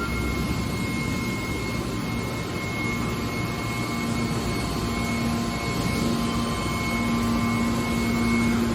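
Hydraulic scrap car baler running: steady machine noise with a low hum that strengthens about halfway through and a thin, steady whine above it.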